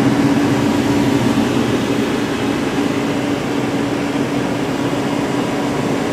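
1996 Haas VF0 vertical machining center running with a steady hum that carries one steady tone.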